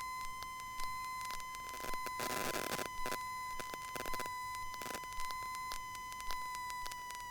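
Cockpit headset and radio audio between transmissions: a steady electronic whine with regular clicks about once a second, and a short burst of static about two seconds in.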